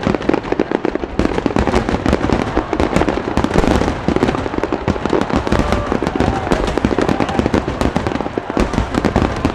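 Finale barrage of aerial fireworks: a continuous rapid volley of shell bursts and crackling, many bangs a second overlapping with no pause.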